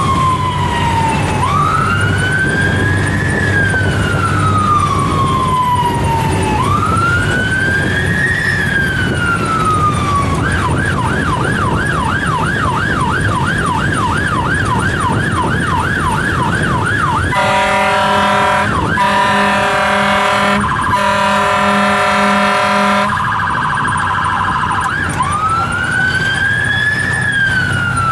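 Fire engine running code 3 with its siren going over the rumble of the truck's engine. The siren goes from a slow rising-and-falling wail to a fast yelp for several seconds. Then comes a long steady horn blast, broken twice, then a brief rapid warble, and then the wail again.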